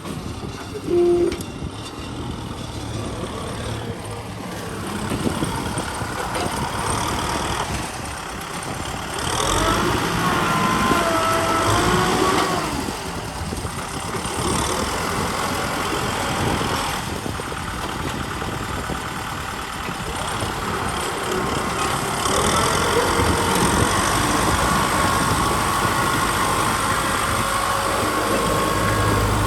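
Kubota M6040 SU tractor's diesel engine running steadily under load while ploughing, getting louder about nine seconds in and again a little past twenty seconds. A thin whine wavers in pitch around ten seconds in and holds steady near the end.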